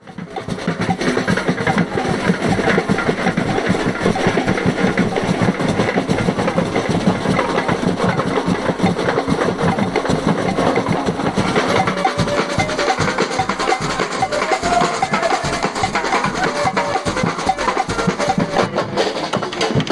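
Carnival band drumming: dense, fast drum and wooden-stick percussion, with a melodic line coming in around the middle.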